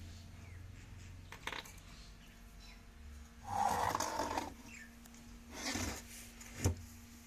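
Hands-on work on a sewing machine: a click, then two scraping, rubbing noises, then a sharp knock near the end.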